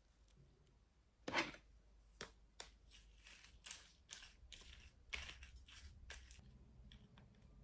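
Quiet handling sounds of small objects: scattered soft clicks and light rustling, the loudest a short knock about a second in.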